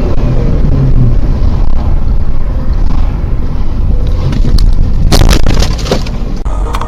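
Vehicle driving noise heavy with low rumble and wind buffeting the microphone, with a short cluster of sharp knocks a little after five seconds.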